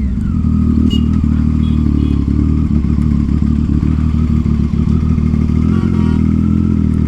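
Triumph Street Triple 675's inline-three engine with an aftermarket Yoshimura exhaust, running loud and steady at an even cruising speed under the rider.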